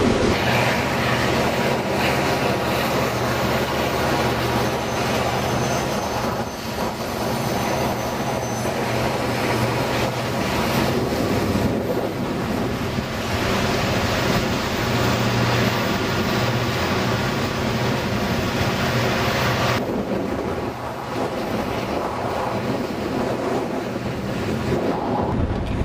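Freight train running, with a steady diesel engine hum and rolling noise.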